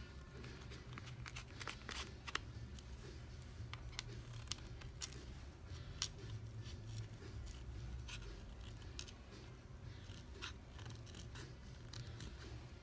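Small repair tools clicking and tapping irregularly on a smartphone during a screen repair, over a low steady hum.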